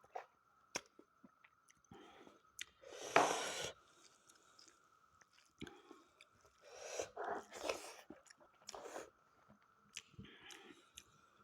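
Chewing and biting of smoked, fire-dried mutton in irregular bouts with small mouth clicks, the loudest bout about three seconds in and another cluster around seven to eight seconds.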